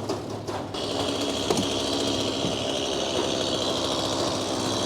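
Frick sawmill's 48-inch circular saw blade cutting into a poplar log, starting about a second in as a steady high-pitched cutting noise over the even, rhythmic running of the Minneapolis Moline engine that powers the mill.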